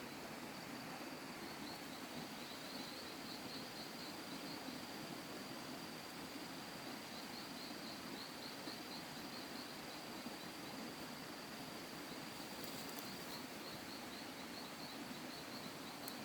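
Insects chirring outdoors: a steady high trill with repeated pulsing bursts, over a faint low hum.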